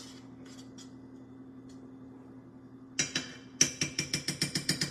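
A faint steady hum, then about three seconds in a kitchen utensil starts clinking rapidly and rhythmically against cookware, about seven strokes a second, as in fast stirring or whisking.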